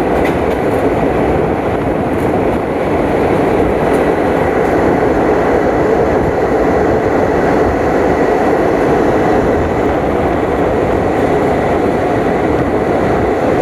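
Train running steadily along the track: a loud, even rush of wheel and track noise with a faint high whine.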